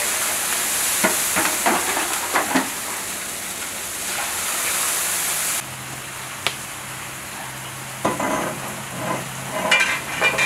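Carrots frying in oil in a large kazan: a steady sizzle, with the metal ladle scraping and knocking against the pot as it is stirred, a few strokes near the start and a cluster near the end. The sizzle drops sharply about halfway through.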